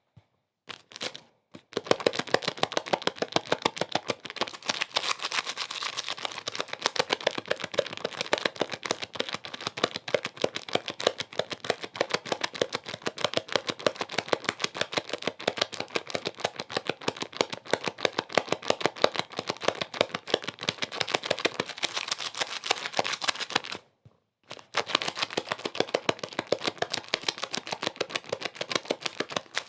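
Dense, continuous crackling made of many small, irregular clicks, like crinkling. It drops out briefly twice near the start and again about 24 seconds in.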